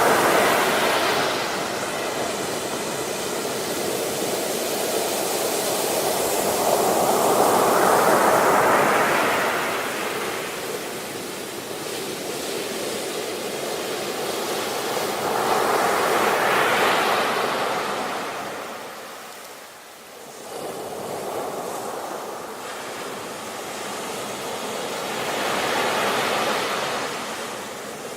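Ocean surf: waves breaking and washing in slow swells. Each swell rises to a peak and falls away about every eight to nine seconds, four in all, with the quietest lull about two-thirds of the way through.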